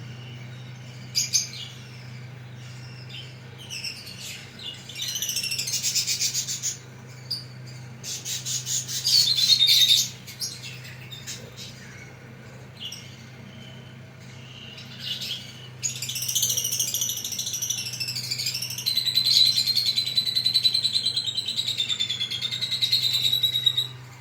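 Pet parrots chirping and chattering in irregular bursts, with a longer stretch of warbling calls in the last third, over a steady low hum.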